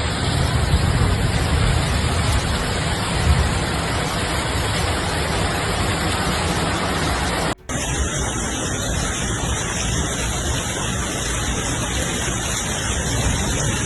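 Steady, loud rush of floodwater, a dense noise with a heavy low rumble. It drops out briefly near the middle, where one recording cuts to another.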